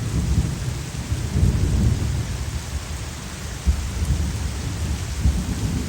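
Heavy rain pouring down with thunder rumbling low underneath, the rumble strongest in the first two seconds.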